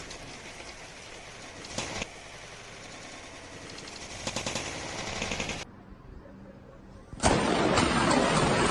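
Hailstones hammering down in a dense, rapid clatter, with sharper crackling bursts about two and four to five seconds in. The sound drops away abruptly for a quieter spell, then returns much louder near the end.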